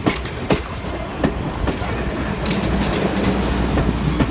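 Passenger train cars rolling past, their steel wheels clicking over rail joints every half second to a second over a steady rumble.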